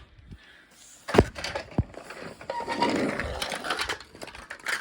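Small plastic toy trucks being handled: two sharp knocks, then a second or so of rattling and scraping.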